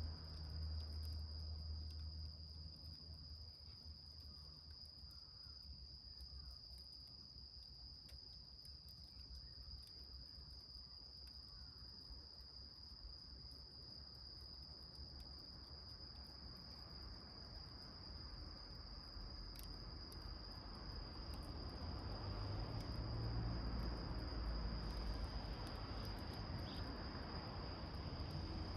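A steady, high-pitched insect trill, cricket-like, runs unbroken throughout. Faint crackles of a small wood fire burning in a can sit over a low rumble that grows louder in the second half.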